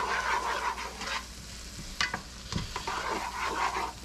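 A utensil stirring onions in a hot pot, scraping and knocking against the bottom in irregular strokes over a steady sizzle.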